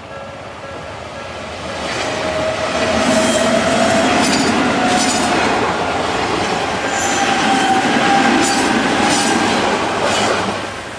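Odakyu 2000 series eight-car electric train passing over a level crossing. It rushes by loudly for about eight seconds, wheels clacking over the rail joints, with a steady whine. The crossing's warning bell rings before the train arrives and is heard again as it clears.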